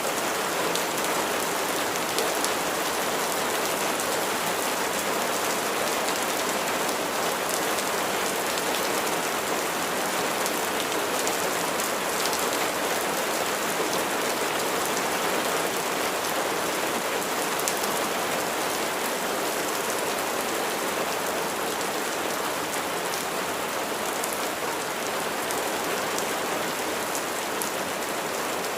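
Steady rain falling, an even hiss with fine ticks of individual drops, holding level with no thunder.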